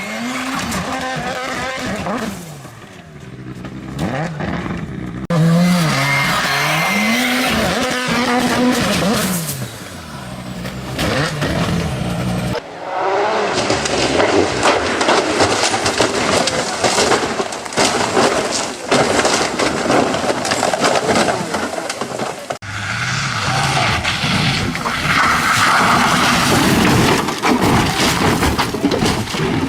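Several road-vehicle clips cut together: car engines and tyre and road noise, the sound changing abruptly at each cut, about 5, 13 and 23 seconds in. In the first two clips an engine's pitch rises and falls.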